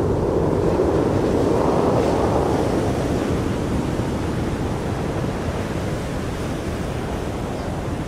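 Rumbling roar of a fighter jet's engines after a pass, slowly fading as the jet moves away.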